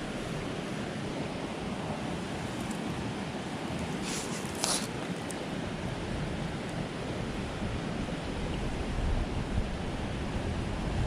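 Steady rushing noise, with a brief rustle about four seconds in.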